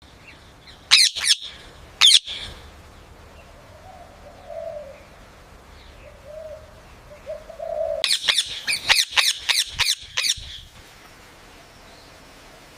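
Parrot calling in sharp, high chirps: two near the start, then a quick string of them about eight seconds in. Softer, lower sounds come in between.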